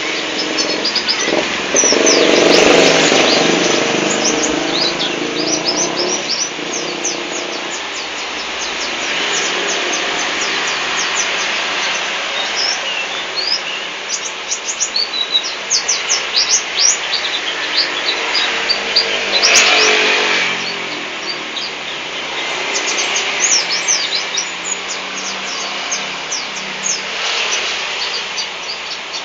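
White-eye (pleci) chirping and twittering in quick, high notes that run on without a break. A broader rushing noise swells up twice, a couple of seconds in and again about two-thirds of the way through.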